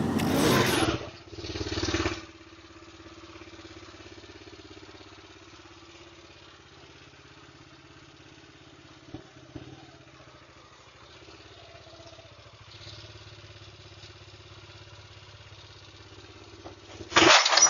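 Motorcycle engine idling steadily at a low level. There are loud bursts of noise in the first two seconds and again just before the end, and two short clicks about nine seconds in.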